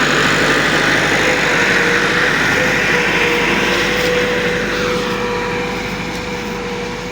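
Diesel tractor engine running steadily, growing gradually quieter over the last two seconds.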